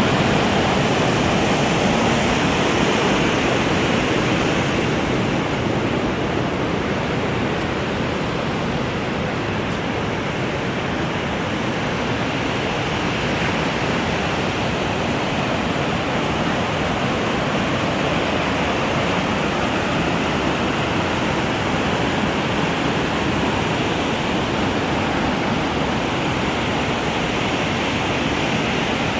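Waterfall: a steady rush of falling water that keeps on without a break.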